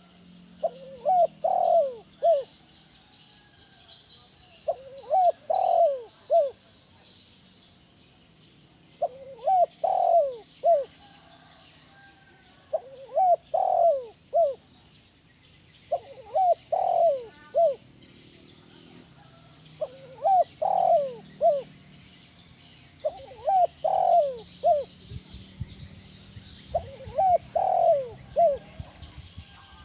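Spotted dove (tekukur) cooing: the same short phrase of several low notes, repeated eight times at an even pace of about one every three and a half to four seconds.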